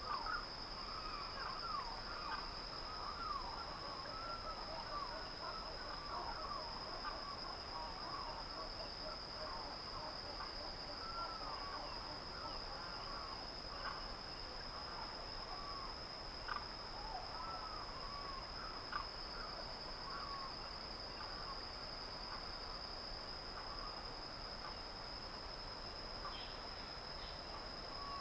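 Dawn countryside ambience: a steady high insect trill, typical of crickets, runs without a break under many short whistled bird calls. The calls are busiest in the first two-thirds and grow sparser towards the end.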